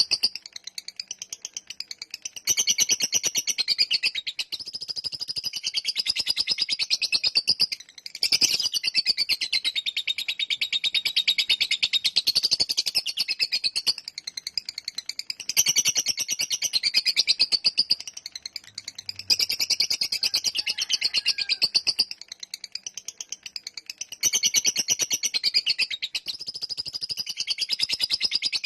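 Lovebird singing its long 'ngekek' chatter: a very fast, unbroken run of high, clicky notes that goes on for several seconds at a time, with only brief breaks between the long phrases.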